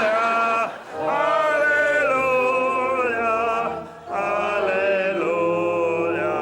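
A choir singing long held notes in slow phrases, with two short breaths between phrases, about a second in and about four seconds in.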